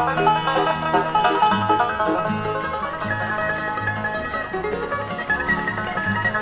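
Instrumental bluegrass: fast picked banjo with mandolin and guitar over a bass line that alternates notes about twice a second, with no singing.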